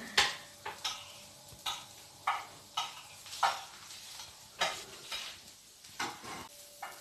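Food being stirred and scraped around a frying pan on the hob, about a dozen short strokes at irregular spacing.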